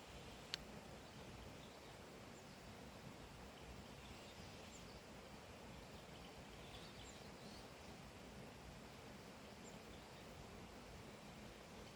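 Faint outdoor ambience: a steady low hiss with a few distant bird chirps scattered through it, and one sharp click about half a second in.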